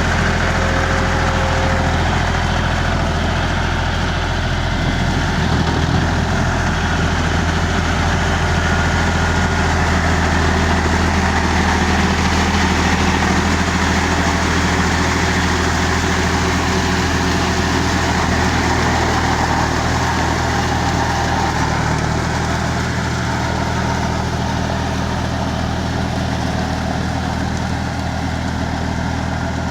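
A tractor's diesel engine running steadily at low, even revs.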